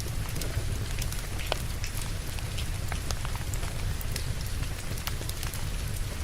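Steady rain mixed with a crackling wood fire: a constant hiss and low rumble, with scattered sharp pops and ticks.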